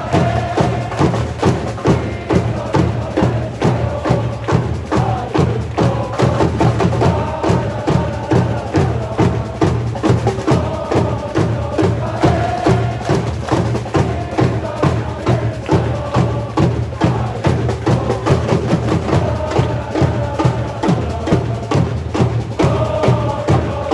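Football supporters' end singing a chant in unison to a steady beat of drums.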